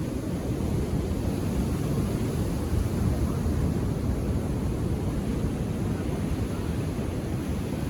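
Ocean surf on a beach: a steady low rumble of calm waves washing in, with no single breaker standing out.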